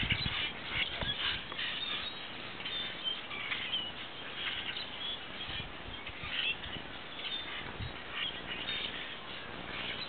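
Small birds chirping in short, scattered calls.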